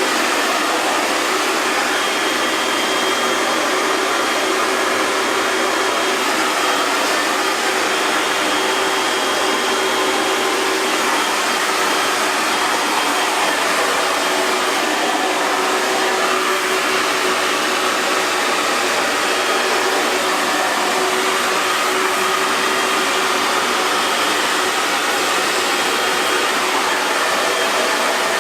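Hair dryer blowing continuously: a steady rush of air with a faint motor hum and a thin whine, unchanging throughout.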